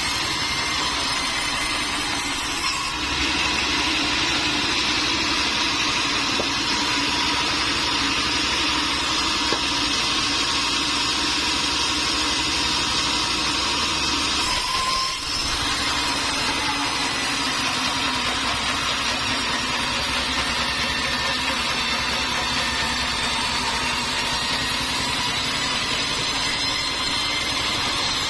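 Sawmill machinery running steadily: a constant mechanical noise with a high whine, briefly dipping about halfway through.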